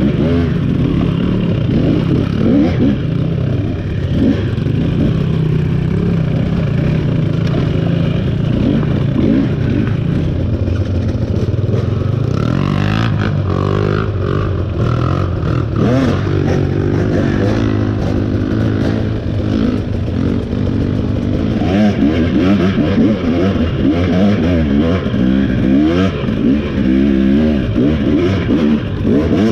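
Single-cylinder two-stroke engine of a KTM 300 XC dirt bike revving up and down as it is ridden over rough ground, with scattered knocks and rattles.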